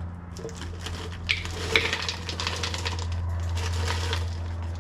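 Light clicking and clattering of kitchen items and packaging being handled during smoothie preparation, with two sharper knocks about a second and a half in, over a steady low hum.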